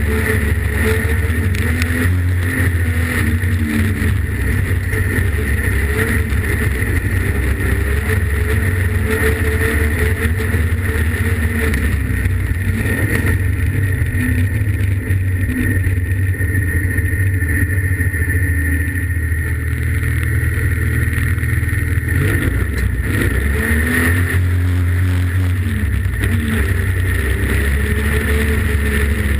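Streetstock race car's engine running hard, heard from inside the cockpit. Its pitch dips and climbs again twice, once a few seconds in and again near the end.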